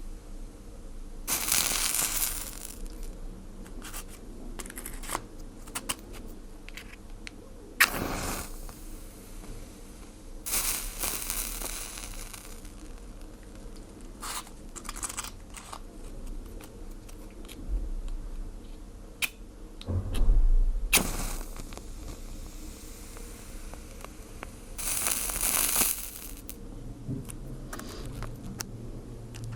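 A fire being put out: crackling and popping, with three hissing surges of about a second each as water meets the hot embers, and a few louder knocks.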